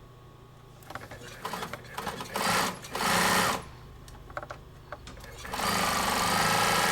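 Bernina 950 industrial zigzag sewing machine stitching a decorative design. After a low steady motor hum, it sews in short bursts with clicks, with two brief runs about two and three seconds in. A long steady run of stitching starts near the end.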